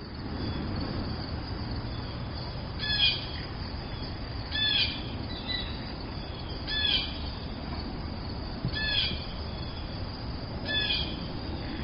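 A bird giving a short call about every two seconds, five times, each call dipping slightly in pitch at its end, over a low steady outdoor rumble.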